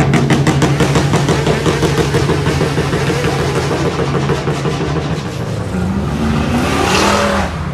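Car engine revved and held at high revs for about six seconds with a rapid even crackle, then the revs dip and rise again with a loud burst of exhaust noise near the end before it falls away.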